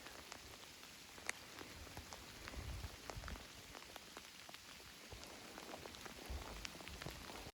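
Light rain falling: a soft steady hiss with scattered individual drops ticking, one a little louder about a second in.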